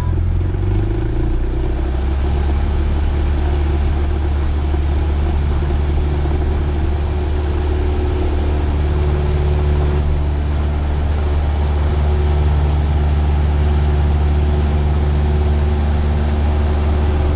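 Cessna 172R's four-cylinder Lycoming engine and propeller at full power for the takeoff run: a steady, loud drone that steps up slightly in pitch about a second in as the throttle comes up.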